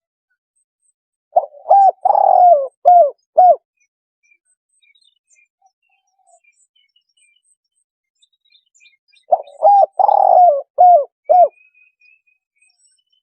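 Spotted dove cooing as a lure call: two phrases of about five coos each, roughly eight seconds apart.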